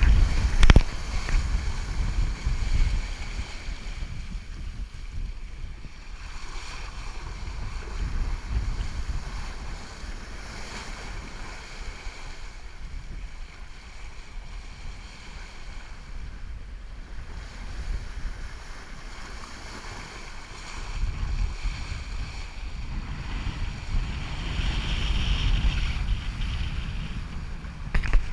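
Wind and sea water rushing past a sailboat under way, with wind buffeting the microphone; the rush swells and eases over several seconds, loudest near the start and again near the end.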